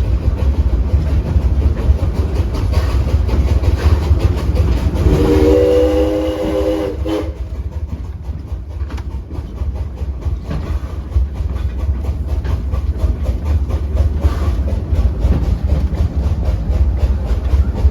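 1901 Dickson Works (American Locomotive Company) steam locomotive pulling the train up a grade, running with a steady rhythmic beat over a low rumble. Its steam whistle blows once for about two seconds, about five seconds in.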